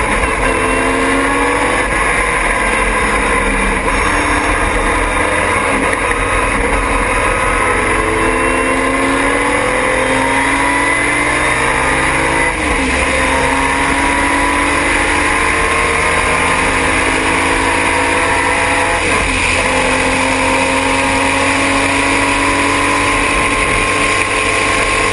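Triumph TR6 straight-six race engine running hard at speed, its pitch climbing slowly and dropping back sharply about twelve seconds in and again about six seconds later, as with a lift or gear change.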